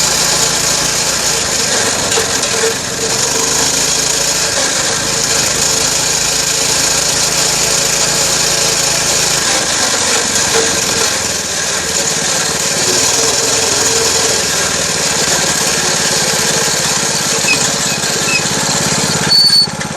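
Dirt bike engine running steadily while being ridden, heard from a camera mounted on the bike, with wind noise on the microphone.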